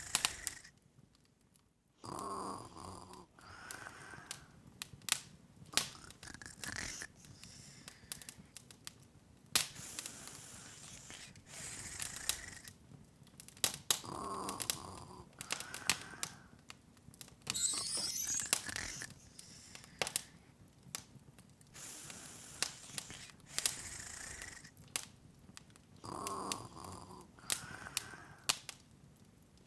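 Open fire crackling, with irregular sharp pops and snaps over a soft hiss. A soft breathy sound recurs about every twelve seconds, and a brief rising twinkle sounds about two-thirds of the way through.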